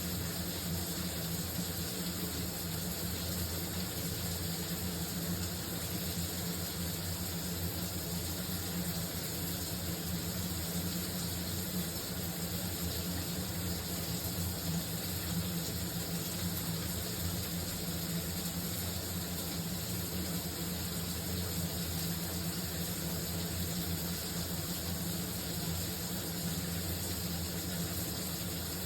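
Shower water running steadily: an even, unbroken hiss of spray with a low, steady rumble beneath it.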